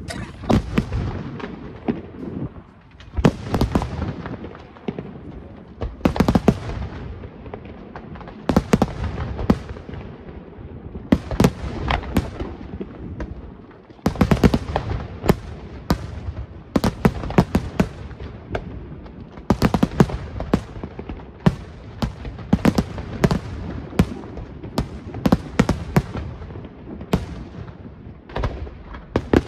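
Fireworks display: aerial shells bursting in a dense, irregular run of loud bangs, many in quick succession, with a short lull about halfway through before the bangs resume.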